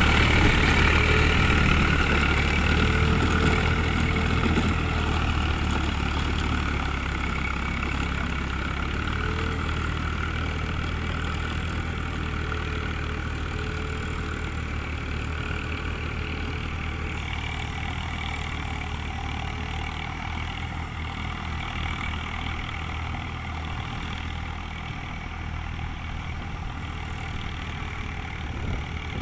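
Tractor diesel engine running steadily at low revs, a low even hum that slowly grows fainter over the first twenty seconds or so.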